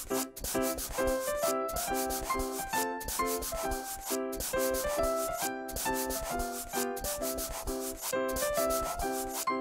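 Pen or marker scratching across paper in quick repeated strokes as lines are drawn, over light background music with a plinking melody.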